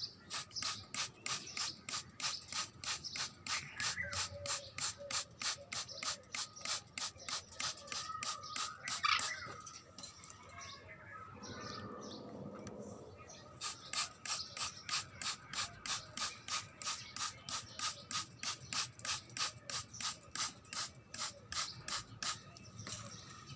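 Hand spray bottle misting water onto a baby Alexandrine parrot, squeezed in a quick steady rhythm of about three to four sprays a second, pausing for a few seconds in the middle. The parrot gives a short chirp near the middle.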